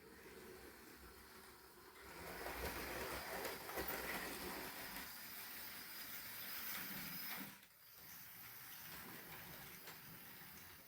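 Trix HO-scale model locomotive running on its track, with a faint whirring of the motor and rolling wheels. It grows louder about two seconds in and drops back abruptly a little over halfway through.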